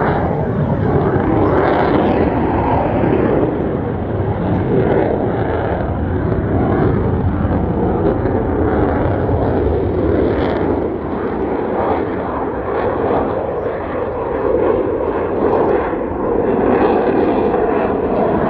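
Fighter jet engine noise: a loud, continuous, dense rumble that swells and eases slightly but never stops.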